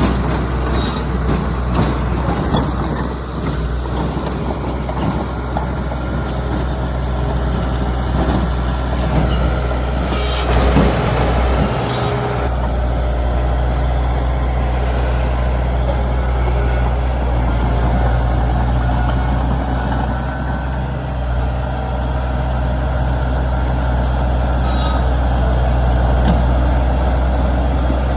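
Heavy diesel earthmoving machinery running steadily, with a deep, continuous engine drone. A few short, sharp noises cut in about a third of the way through and again near the end.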